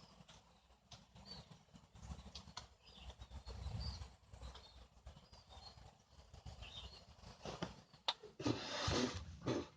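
Small munias (burung pipit) feeding, giving faint, scattered high chirps over a low rumble. Near the end comes a louder burst of rustling, about a second long, that sounds like wings flapping.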